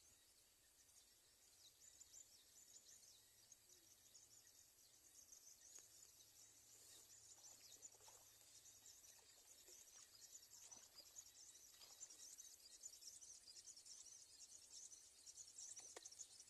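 Faint chorus of insects, crickets among them, chirping rapidly and high-pitched over a thin steady whine, growing slightly louder toward the end, with a few soft knocks.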